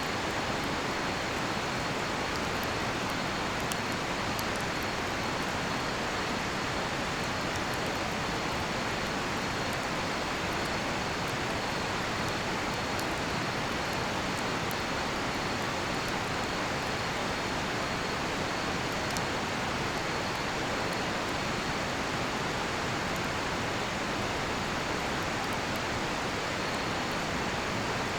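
River water rushing steadily, with a faint continuous high cricket trill above it and occasional small crackles from a cedar-wood campfire.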